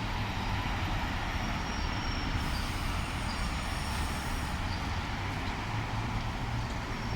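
Sydney Trains OSCAR H-set electric train pulling into the platform: a steady rumble of running gear with a low hum, and a hiss high up that comes in about two and a half seconds in and stops about two seconds later.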